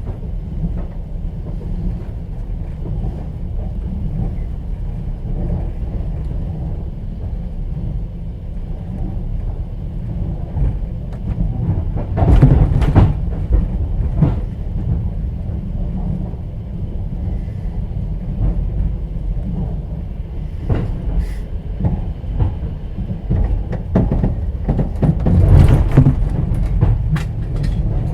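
Moving passenger train heard from inside an open-plan sleeper car: a steady low rumble, with clusters of wheel clatter on the rails about halfway through and again near the end.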